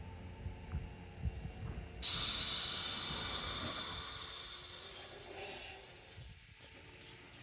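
Toyama Chiho Railway 10030-series electric train letting out a sudden hiss of compressed air from its pneumatic system about two seconds in, fading away over the next few seconds, as it gets ready to depart. A low rumble with light knocks runs beneath before the hiss.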